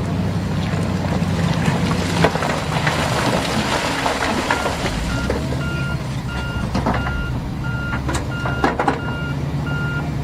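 Heavy diesel machinery running steadily. About halfway through, a reversing alarm starts beeping at an even pace, roughly one and a half beeps a second, from a reversing truck. A few sharp knocks come near the end.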